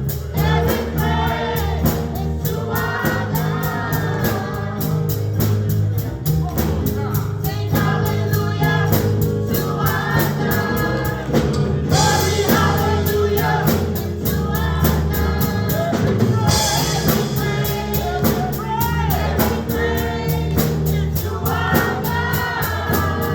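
Gospel choir singing with a band: steady bass, drums keeping a regular beat, and cymbal swells twice midway.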